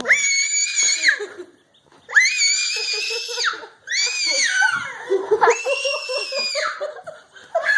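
Four long, high-pitched screams, each lasting about a second, with short gaps between them.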